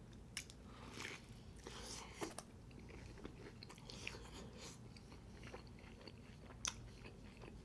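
A person chewing pizza up close: soft, wet mouth sounds and smacks with scattered clicks, two of them sharper.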